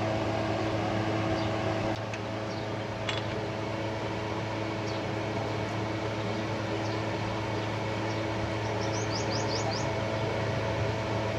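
Steady mechanical hum with a constant low drone, like a fan or running motor. A quick run of faint high chirps comes about nine seconds in.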